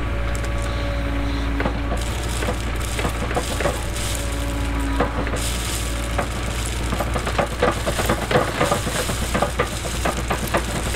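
Cat 307 excavator engine running steadily, with a hydraulic whine that comes and goes, under a dense crackling and grinding of stones and gravel against the bucket. The crackle grows thickest about seven to ten seconds in.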